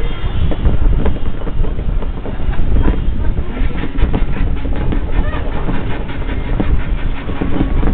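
Fireworks going off: a continuous low rumble of bursts, turning into dense rapid crackling about halfway through.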